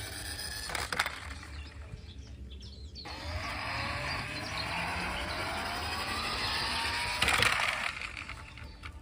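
Plastic toy cars being handled: sharp clicks about a second in, then several seconds of whirring, rising slowly in pitch, that ends in a loud clatter.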